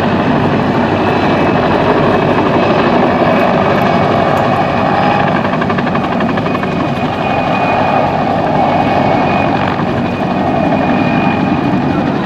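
PZL Kania helicopter in flight, its twin turboshaft engines and main rotor making a loud, steady drone with a high, steady turbine whine over it.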